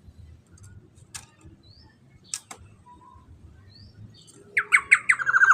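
Black-naped oriole calling: a few faint short chirps, then about four and a half seconds in a loud, harsh call of rapid pulses.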